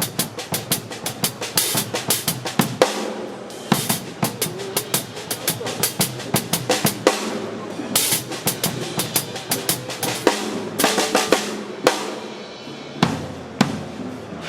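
Sonor drum kit played live, solo: a busy groove of bass drum, snare and rimshots with cymbal crashes every few seconds.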